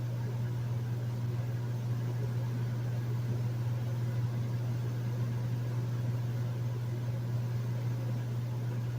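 Hotel room air conditioner running steadily: a strong low hum with a soft rush of air over it.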